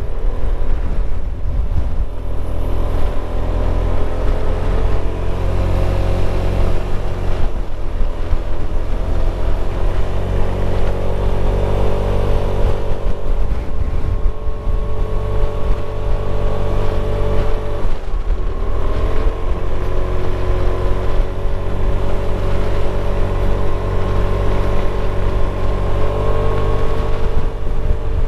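Motorcycle engine running steadily while riding, with a low rumble of wind on the microphone. The engine pitch shifts a few times as the speed changes, dipping and climbing back about two-thirds of the way through.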